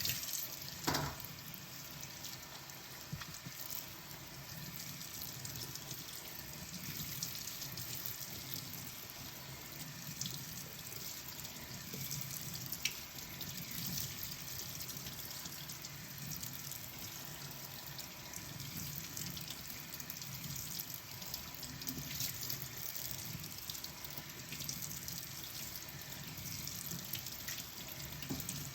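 Tap water running steadily into a kitchen sink during hand dishwashing. Now and then dishes clink against each other, most sharply about a second in.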